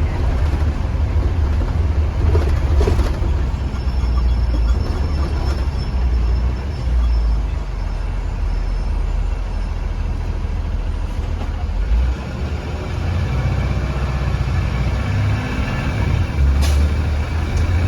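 2015 Blue Bird Vision school bus running, heard from inside the cab: a steady low engine and road rumble, with a brief click near the end.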